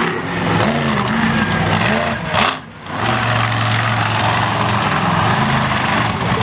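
Monster truck engine revving, its pitch swinging up and down, with a brief drop as the throttle is lifted about two and a half seconds in.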